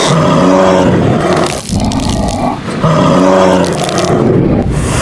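Tiger roaring twice, two long, loud roars about a second apart.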